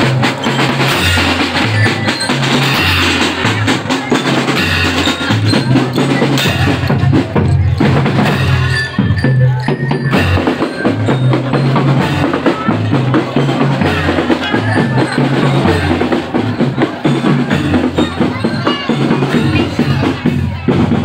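Loud music with heavy drums and a bass line that steps between two low notes in a steady rhythm, played through a carnival sound system.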